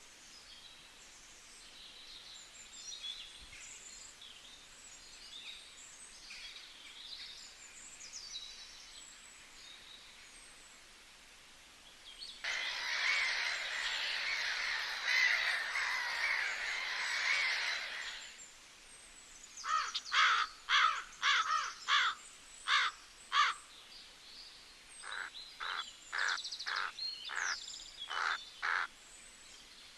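Wild birds calling: scattered faint high chirps, then about six seconds of dense chatter, then two runs of loud, evenly repeated harsh calls at a little over two a second.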